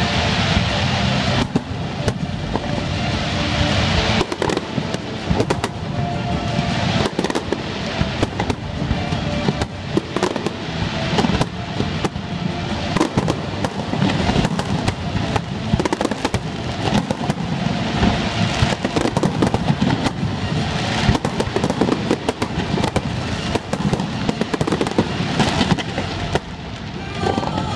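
Finale barrage of aerial firework shells bursting in a dense, continuous string of overlapping cracks and booms, with the show's synchronized music playing underneath.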